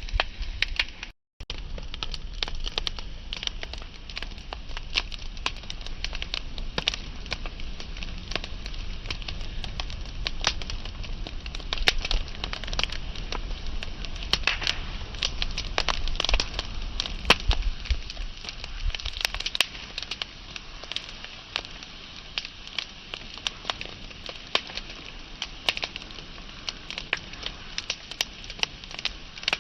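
Wood fire crackling: a dense, irregular run of sharp pops and snaps over a soft hiss, with a low rumble beneath that fades in the second half. The sound cuts out for a split second about a second in.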